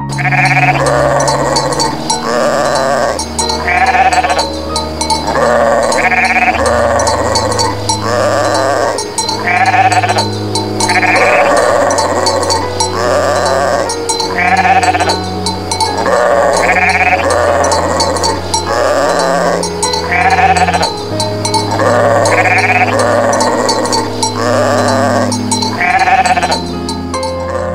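Sheep bleating over and over, loud calls following one another every second or two, over background music with low sustained notes.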